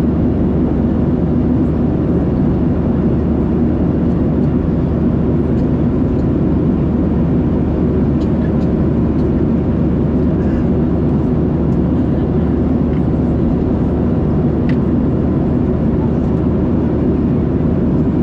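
Steady cabin noise of a Boeing 737-700 in cruise: a constant low rumble of its CFM56 engines and the airflow over the fuselage, with a faint steady hum on top.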